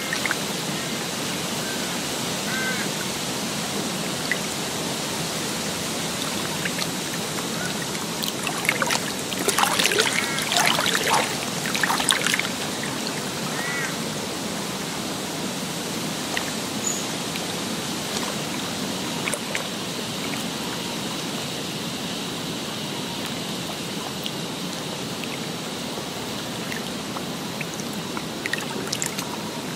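Outdoor nature ambience: a steady rush of running water with birds calling now and then, and a busier burst of calls about ten seconds in.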